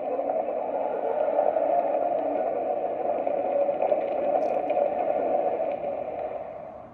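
Model railroad passenger car's onboard sound unit playing a steady recorded background noise track through its small speaker, thin-sounding with no high end. It fades out near the end.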